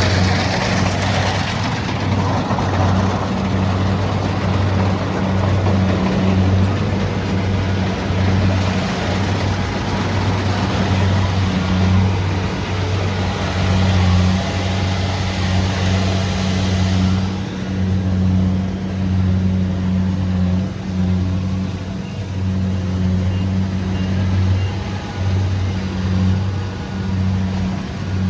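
Kubota DC70 Pro rice combine harvester running steadily under load, its diesel engine giving a low, slightly pulsing hum. A hissing layer of machinery noise over it drops away about two-thirds of the way through.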